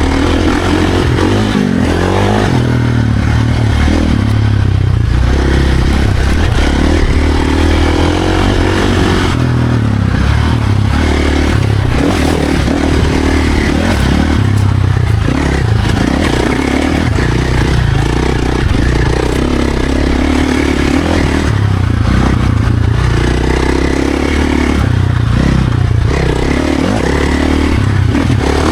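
Dirt bike engine running hard on a trail ride, its pitch rising and falling again and again as the throttle opens and closes.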